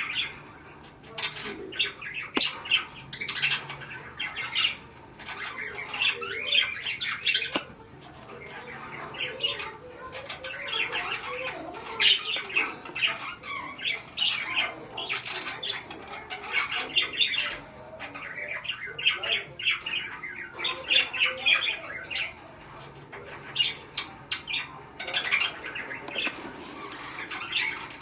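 Budgerigars chattering, a steady run of quick chirps and squawks.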